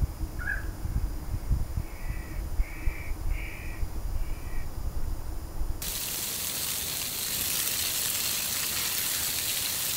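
Wind buffets the microphone while a bird gives one short call, then four harsh caws about two-thirds of a second apart. A little over halfway through, this gives way suddenly to a steady hiss.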